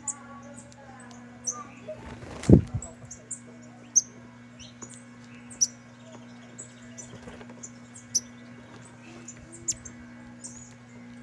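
Saffron finches giving short, high chirps at irregular intervals, with a single thump about two and a half seconds in.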